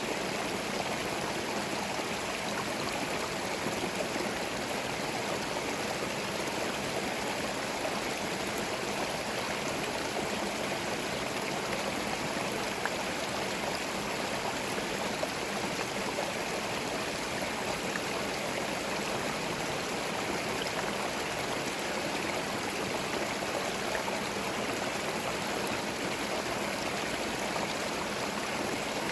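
Small forest stream flowing over stones: a steady, even rush and babble of running water.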